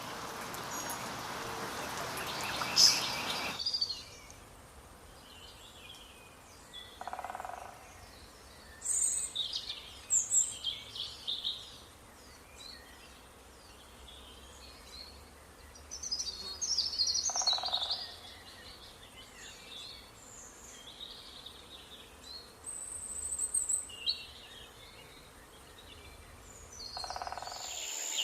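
Birds chirping and calling in short high bursts, with a brief lower call roughly every ten seconds. A steady hiss fills the first few seconds and cuts off suddenly.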